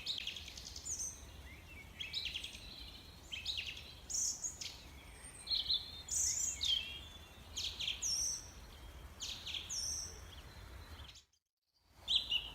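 A bird calling repeatedly: short, high chirps with quick falling notes, in clusters about once a second over a faint low rumble. The sound cuts out completely for under a second near the end, then the chirps resume.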